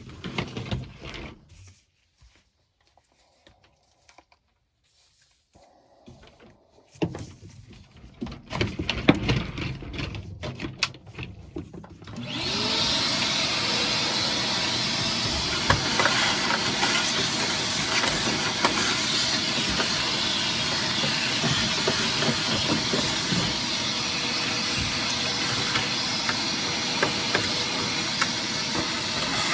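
Scattered knocks and handling clatter, then about 12 seconds in a vacuum cleaner switches on, its motor spinning up, and runs with a loud steady rushing noise while it cleans out the furnace cabinet.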